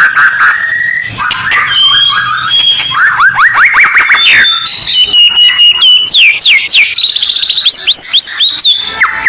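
Loud, dense recorded birdsong: a held whistled trill at first, then fast runs of sharply falling whistled notes and chips that climb higher in pitch through the second half. This is a bird-training (masteran) track of aggressive provocation calls for white-rumped shamas.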